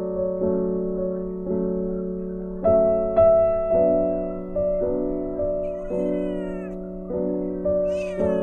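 Gentle piano music, with notes struck about twice a second. Over it a kitten mews, high and thin, about six seconds in and again near the end.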